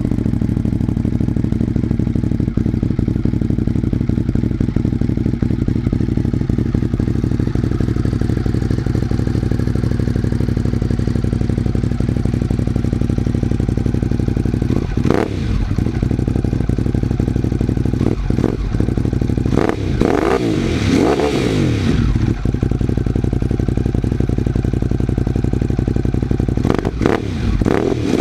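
Ducati Monster 821's Testastretta L-twin engine, through a carbon Termignoni racing exhaust, idling steadily and loudly, with short throttle blips whose revs rise and fall about halfway through, a quick cluster of blips a few seconds later, and one more near the end.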